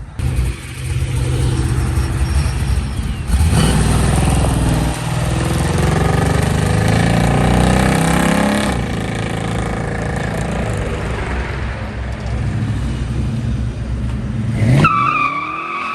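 Car engine revving hard as a classic car launches away from the meet, its pitch climbing for several seconds before it backs off abruptly. Near the end a high, steady squeal rises, as the tyres break loose and the car goes sideways.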